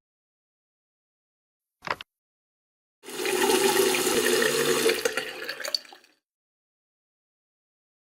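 A short click, then a rush of water for about three seconds that fades out.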